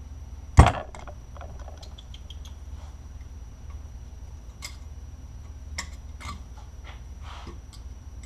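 Metal hand tools working on a motorcycle cylinder head: a sharp metallic knock about half a second in, then scattered light ticks and scrapes as a valve spring is compressed with a C-clamp and the split cones are worked loose with a scribe. A steady low hum runs underneath.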